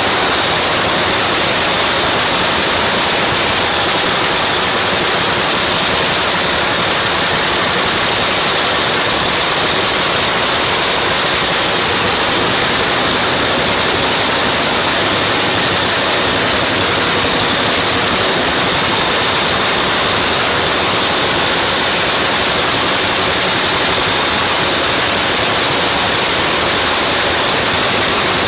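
Nitro Funny Car's supercharged nitromethane V8 running during its warm-up, heard as a loud, steady rush of noise with no change in pitch.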